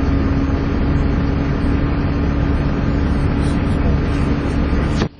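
Volvo B7TL double-decker bus's diesel engine working hard, with a steady whine held over the engine's rumble (the 'hoover' sound). The whole sound drops away suddenly near the end.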